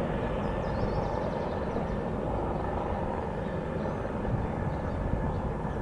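Helicopters flying, a steady low rumble of rotors and turbine engines.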